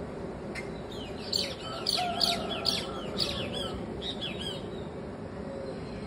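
Birds calling: a quick run of high, arching chirps and squawks, a few each second, from about half a second in until about four and a half seconds in, over a steady background rush.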